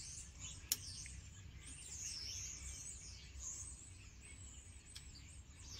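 Faint birdsong: high, wavering chirps, with one sharp click a little under a second in.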